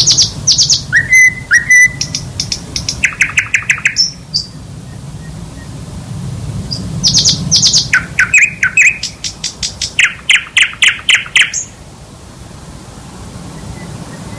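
Songbird song in two bouts of fast, ringing trills and chattering note series, with a pair of rising whistles in the first bout. The second bout starts about seven seconds in and stops sharply at about twelve seconds, leaving a low steady hum.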